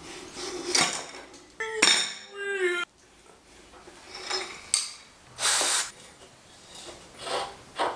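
Loose metal parts clinking and knocking as they are handled, with a brief falling squeal about two seconds in and a short scraping rasp a little past the middle.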